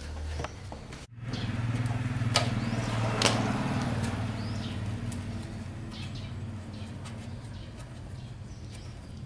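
Old diesel engine running at a steady idle, a low even hum that slowly grows quieter, with a couple of sharp clicks early on.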